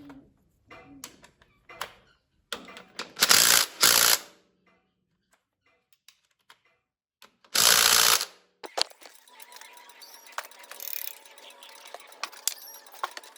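Workshop tool noises: scattered metallic clicks and ratcheting, with two loud bursts of hiss, one about three seconds in and a shorter one near eight seconds, then dense rapid ticking.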